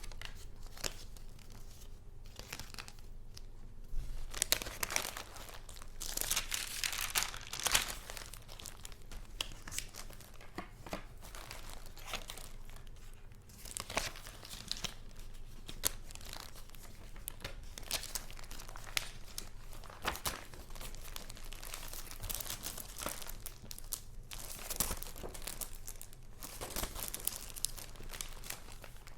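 Paper rustling and crinkling as paper goods are handled, with louder swells of rustle and scattered sharp clicks and taps.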